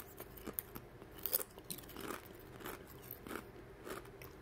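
Mouth chewing a Pringles sweet potato crisp: irregular dry crunches.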